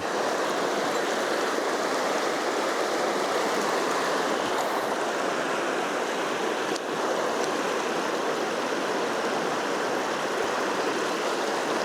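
River water rushing over stones, a steady even flow.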